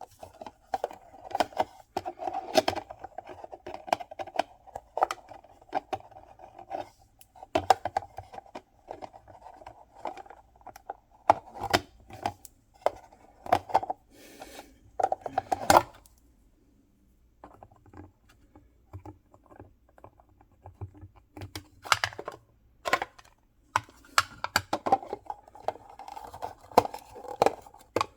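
Mystery-box packaging being opened by hand: crinkling, scraping and tearing, broken by many sharp clicks and taps. It goes quieter for a few seconds past the middle, then picks up again.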